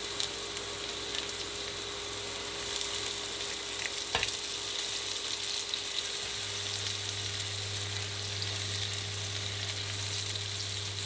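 Ginger, garlic and soaked fermented black soybeans sizzling steadily in hot oil in a pan, with one sharp click about four seconds in and a low steady hum underneath.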